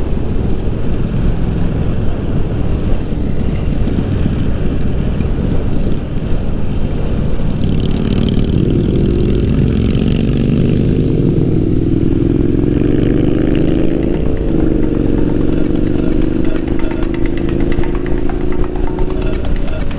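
Triumph Street Scrambler's parallel-twin engine pulling on the highway under heavy wind rush on the microphone. About a third of the way in, the engine note starts to climb steadily, dips briefly a little past the middle, then climbs again.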